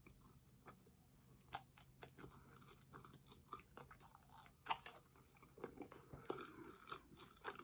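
A person chewing a sweet potato sushi roll dipped in soy sauce, with faint, scattered wet mouth clicks and smacks.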